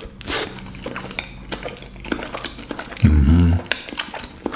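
Close-up chewing of a forkful of crêpe with banana and caramel, with many small wet mouth clicks. A short hummed "mm" comes about three seconds in.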